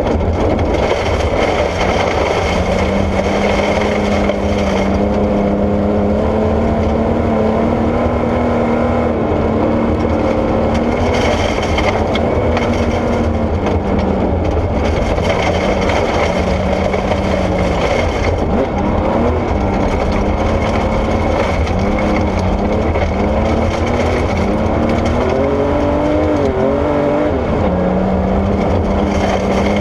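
Porsche 964 rally car's air-cooled flat-six engine driven hard on gravel, its pitch climbing and falling with the revs. Quick rises and drops in revs come in the second half, over a steady rush of tyre and gravel noise.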